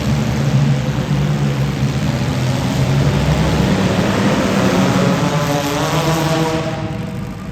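Demolition derby car engines running hard, several at once, with one revving higher from about halfway and easing off near the end.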